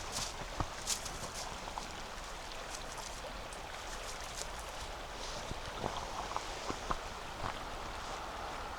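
Steady rushing of flowing river water, with a few footsteps crunching on compacted snow near the start and again about six to seven seconds in.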